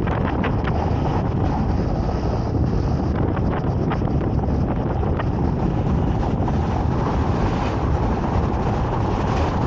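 Wind buffeting the microphone: a steady low rumble with scattered small crackles.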